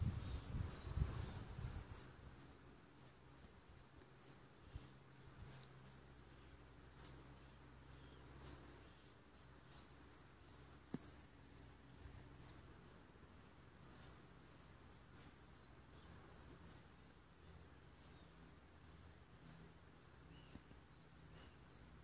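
A small bird chirping over and over, short high-pitched downward notes about two a second, over faint outdoor ambience. A low rumble of handling noise on the microphone in the first two seconds.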